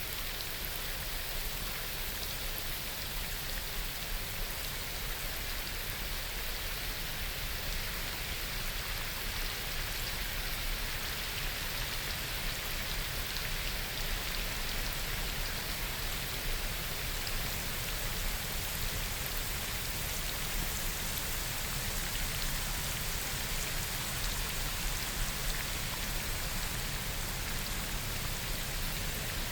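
Steady rain falling on forest foliage, a dense, even patter of raindrops.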